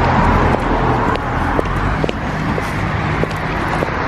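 Steady car noise with a low engine hum, overlaid by a scatter of light clicks and ticks.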